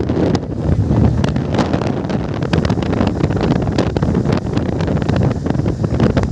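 Wind buffeting the microphone while riding a bike, a loud steady rumble broken by many quick gusty crackles.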